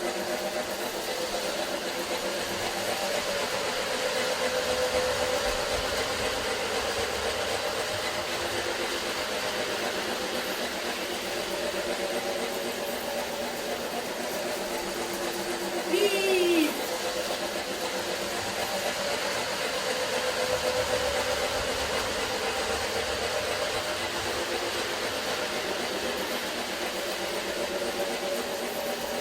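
Electric model train running around its track with a steady motor hum and rail noise, swelling twice as it comes round. About halfway through, a short falling tone sounds briefly, louder than the hum.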